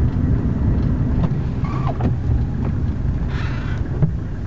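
Mercedes-Benz 300D's OM617 five-cylinder turbo diesel running with a steady low rumble, with a few light clicks and a short hiss a little over three seconds in.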